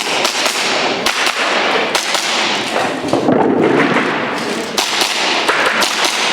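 Airsoft gas blowback pistol shots: sharp cracks fired in quick, irregular strings over a steady background din.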